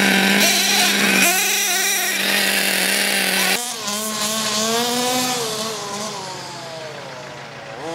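Engine noise: a steady drone with hiss for the first few seconds, then after an abrupt change an engine whose pitch rises and falls as it revs.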